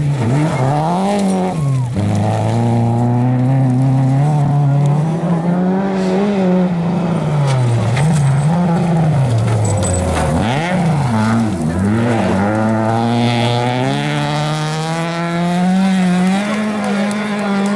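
Rally car engine revving hard, its pitch climbing and dropping again and again with acceleration and gearshifts.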